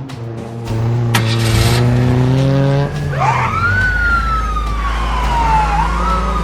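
Cartoon car engine running with a rising pitch. About three seconds in, a police siren begins wailing, sweeping up and then slowly down, over a low engine rumble.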